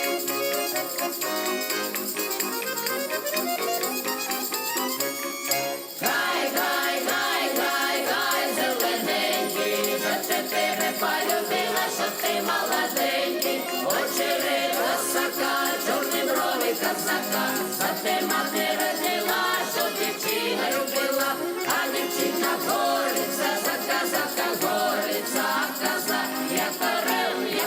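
Folk music played with jingling, rattling hand percussion, no singing yet; about six seconds in it briefly dips and then comes back fuller.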